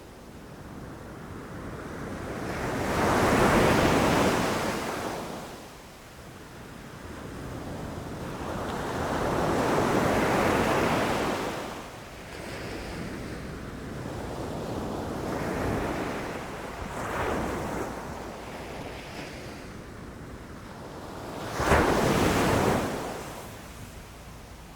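Ocean waves breaking on a shore: swells of surf rise and fall every six or seven seconds, with a sharper, louder crash near the end.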